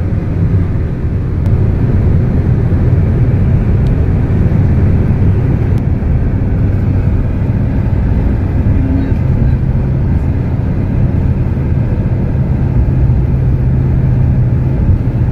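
Car driving at speed, with steady road and engine noise heard from inside the cabin.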